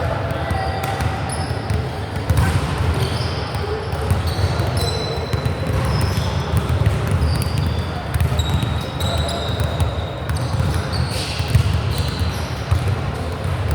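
Sports-hall ambience during a youth volleyball match: a steady din of voices echoing in the gym, with many short high-pitched squeaks of sneakers on the court floor and a few ball thuds.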